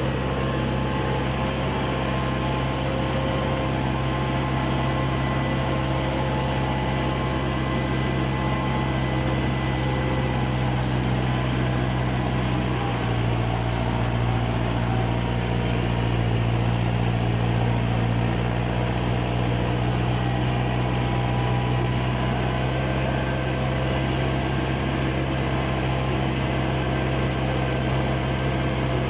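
Farm tractor engine running steadily at working speed, a constant low hum whose pitch dips slightly a little under halfway through.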